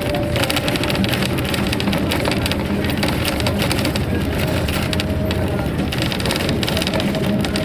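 Ride inside a moving bus: steady engine and road noise with constant rattling of the body and fittings, and a faint steady tone.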